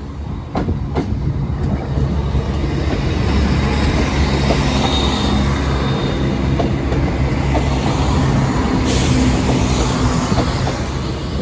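Diesel passenger train passing close by, loud, its engine running steadily with a few sharp wheel clicks near the start. A burst of hissing comes about nine seconds in.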